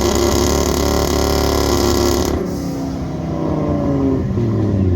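Car engine running loud with exhaust hiss. About halfway through the hiss stops suddenly, leaving the engine note, whose pitch then falls as the revs drop.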